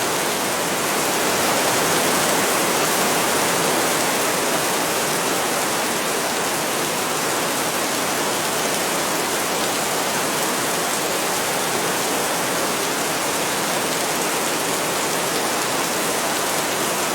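Heavy rain falling steadily, a dense even hiss with no single drops or thunder standing out.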